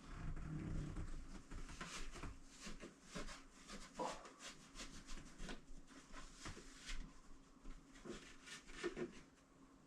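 Hand work around a door frame: irregular rubbing and scraping with many light knocks and clicks.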